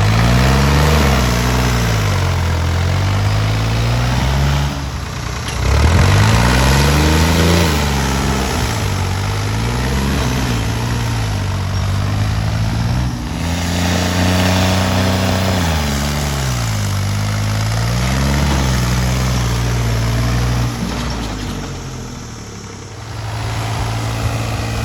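New Holland 3630 tractor's three-cylinder diesel engine running hard. Its engine speed rises and falls several times, and it eases off briefly near the end.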